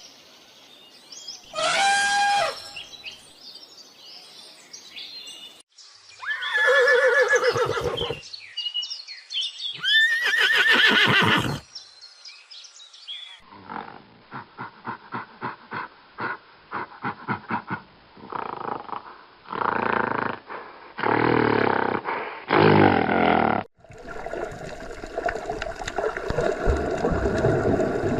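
A horse whinnying three times, separate calls with gaps between them. Then another animal gives a quick run of short rhythmic calls followed by several louder calls, and a steady, even noise starts near the end.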